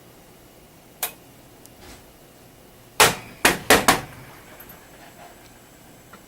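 Yamaha DSP-A3090 AV receiver being switched on: one sharp click about a second in, then about two seconds later four sharp clicks in quick succession. These are typical of the power switch and the internal relays pulling in. The unit stays on rather than dropping into DC protection.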